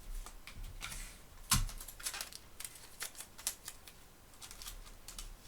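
Thin Bible pages and clear sticky tape being handled: a run of light rustles and ticks, with one sharper snap about one and a half seconds in.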